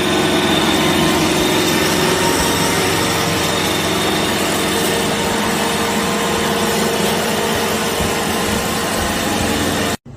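A small motor running with a steady, unchanging whir, cutting off abruptly near the end.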